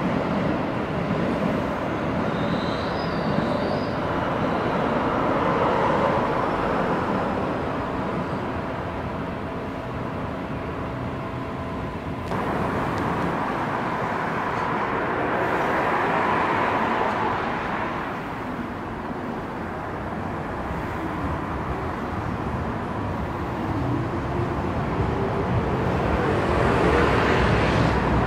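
Electric trains running on elevated track: a steady wheel-on-rail rumble with a faint steady whine, swelling as each train passes. The sound changes abruptly about twelve seconds in.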